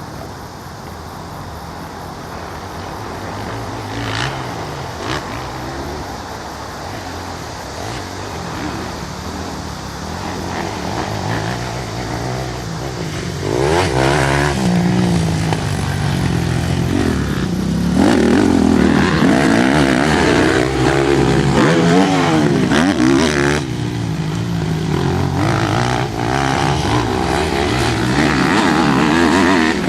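Motocross dirt bike engines revving up and down as bikes ride the track, growing much louder from about 13 seconds in and loudest in the second half as they come close.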